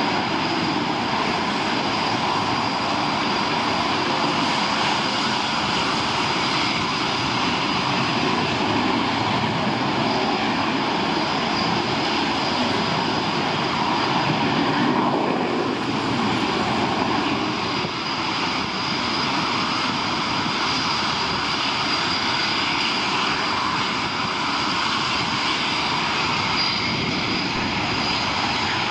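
Jet engines of military fast jets, likely RAF Eurofighter Typhoons, running steadily with a continuous high whine over a broad rushing noise.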